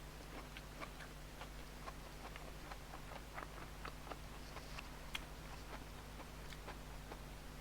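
Faint close-up eating sounds: chewing with small, irregular wet mouth clicks and smacks, over a low steady electrical hum.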